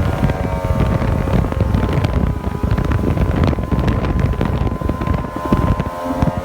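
Yamaha GP1200R personal watercraft's two-stroke triple engine running at speed on the water, a faint steady tone under heavy wind buffeting on the microphone, which is the loudest sound.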